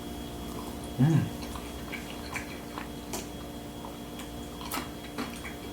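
Small scattered clicks and taps of food and packaging being handled while eating, over a steady electrical hum, with a short murmured voice sound about a second in.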